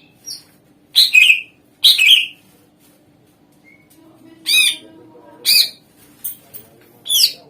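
Cucak ijo (green leafbird) singing in loud, sharp calls, each a quick curling sweep. There are about seven of them, spaced a second or so apart.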